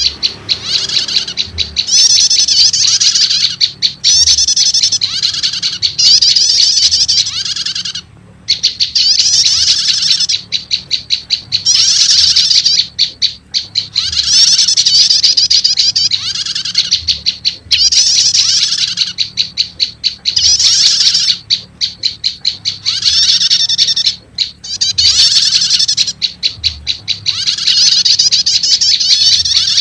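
Recorded olive-backed tailorbird calls mixed with another prenjak's calls, played as a lure to draw wild tailorbirds: loud, fast, high chirping in bouts of a few seconds, with runs of rapid short notes and brief pauses between bouts.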